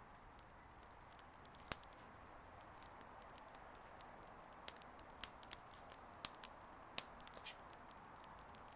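Wood bonfire crackling faintly over a low hiss, with a few sharp pops scattered through it, most of them in the second half.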